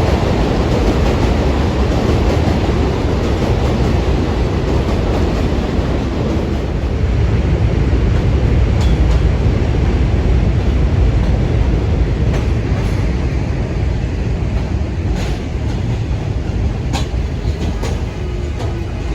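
New York City subway train running through the station: a steady loud rumble with sharp wheel clicks over the rail joints, easing a little near the end.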